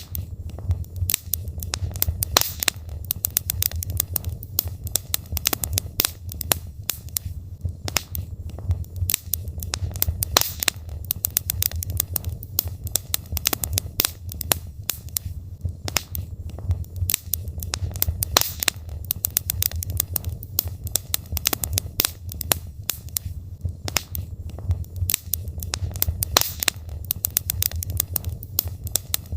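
Wood logs burning in a fireplace: irregular sharp crackles and pops, several a second, over a low steady rumble from the fire.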